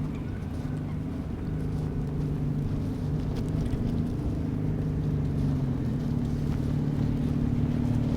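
Low, steady engine hum of a large vehicle running, slowly growing louder.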